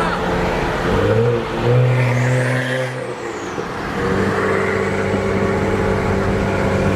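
Car engine and road noise heard from inside a moving car. The engine pitch rises about a second in, then holds steady at cruise.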